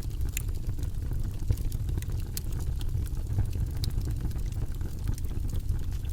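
Campfire crackling, with scattered sharp pops and snaps of burning wood over a steady low rumble.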